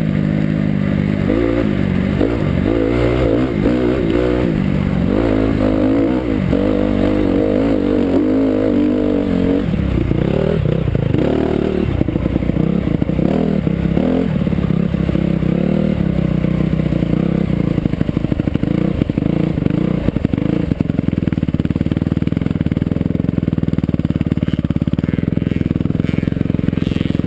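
Motocross bike engine revving up and down through the gears. It settles into a steadier, lower note for the last several seconds.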